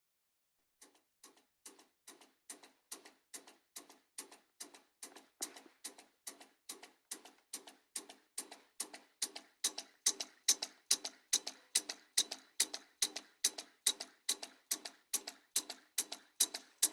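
Homemade vacuum (flame-licker) engine running, its mechanism clicking in an even rhythm of about two and a half beats a second. It starts about a second in and grows louder from about ten seconds in.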